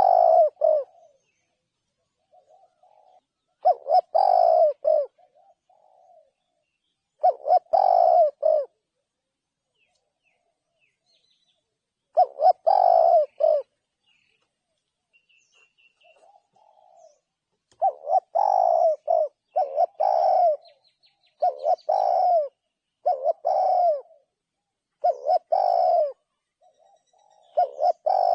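Spotted dove cooing: a run of low coo phrases repeated every few seconds, with soft short notes between them.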